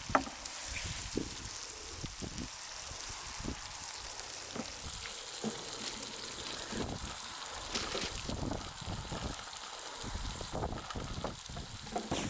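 Meat sizzling and crackling as it cooks in a hot pan, a steady hiss with many small pops throughout.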